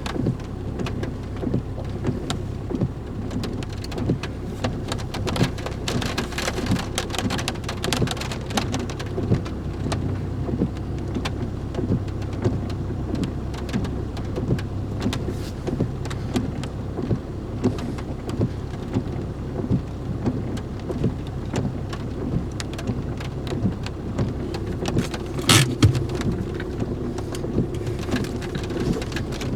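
Steady rain pattering, with a vehicle engine idling low underneath and a louder knock near the end.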